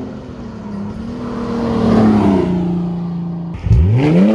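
Car engine running hard and revving: its pitch climbs and eases off over the first half, then drops low about three and a half seconds in and sweeps sharply back up near the end.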